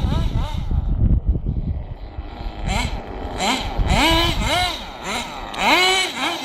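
Small vehicle engine revved in a series of short throttle blips, the pitch rising and falling about twice a second, after a rough low rumble in the first two seconds.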